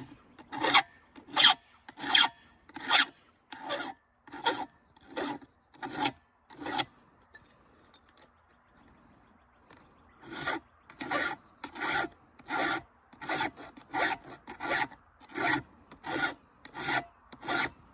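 Hand file rasping across a chainsaw chain's cutting teeth in steady, even strokes about every 0.7 s. The strokes pause for about three seconds around the middle, then resume. Crickets chirp steadily behind them.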